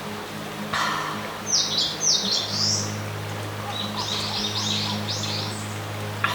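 Small songbirds singing, with two runs of quick high chirps over a steady low hum.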